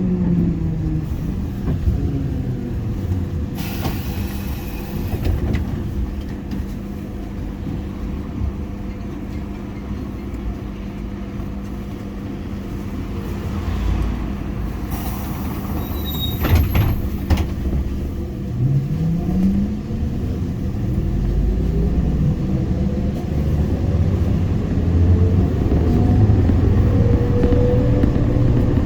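ZiU-682G trolleybus on the move. Its traction motor whine falls in pitch at the start as it slows, a steady hum holds through a quieter stretch with two short hissing bursts, then from about two-thirds of the way in the whine rises in pitch again and again as it accelerates.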